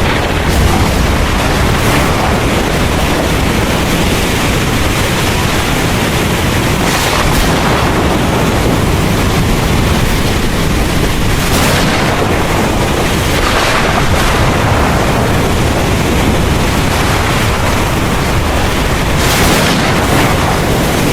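Heavy rain pouring steadily, with a continuous low thunder rumble underneath. The hiss swells briefly a few times, as if with gusts.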